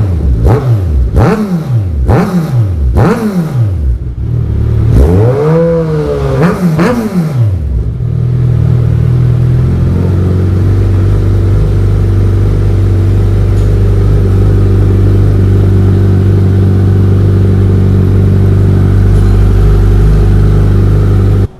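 Kawasaki Z1000's inline-four engine through a newly fitted Black Widow aftermarket exhaust, its dB killers still in. It is blipped about six times in the first seven seconds, each rev rising and falling, then settles into a steady idle that cuts off abruptly at the end.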